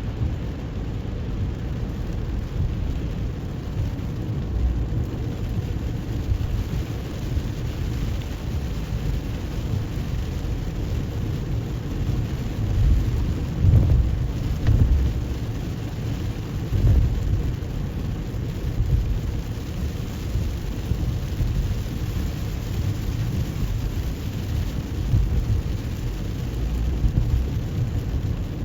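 A car driving through rain on wet roads: a steady low rumble of tyres and engine, with a fainter hiss of rain over it. The rumble swells a few times around the middle.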